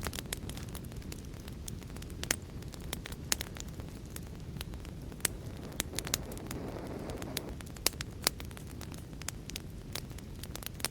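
Wood fire burning with a steady low rumble and constant irregular crackling, a few sharper pops standing out, and a brief hiss swelling up about six seconds in.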